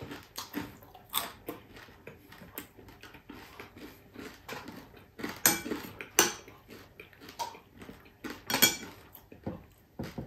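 Close-up chewing and crunching of crispy fried chicken-feet chicharon, with a metal spoon clinking and scraping in a glass salad bowl. A few sharp clinks stand out, around the middle and again later.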